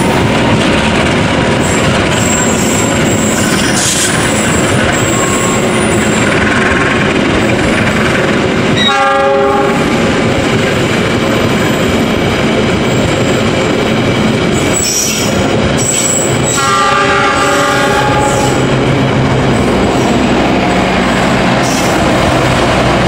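A passenger train passing close by at speed through a station, its wheels rumbling and clattering on the rails with some high wheel squeal. A diesel locomotive horn sounds twice, briefly about nine seconds in and again for a little longer about sixteen seconds in.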